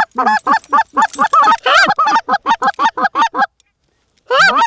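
Goose honks in a fast, even series of short clucking notes, about four or five a second, breaking off after about three and a half seconds and starting again near the end. It is loud and close, typical of a hunter's hand-blown goose call working birds toward the decoys.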